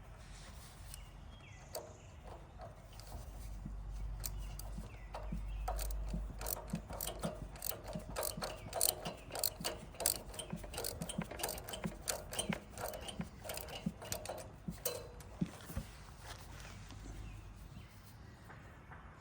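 Hand tools working on metal generator parts: a run of irregular sharp metallic clicks and knocks, densest in the middle and thinning out near the end.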